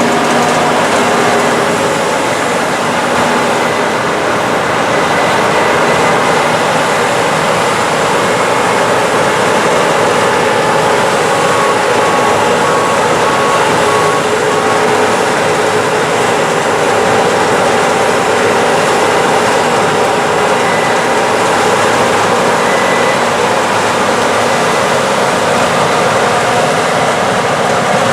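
Case IH 8250 Axial-Flow combine running at harvesting load in corn: a loud, steady mechanical drone of engine, rotor and header with several steady tones through it. A short run of faint beeps sounds about halfway.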